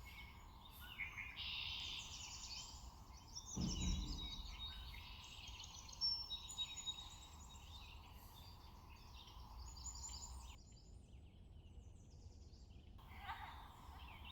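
Faint bird chirping in the background, with one dull low thump about three and a half seconds in.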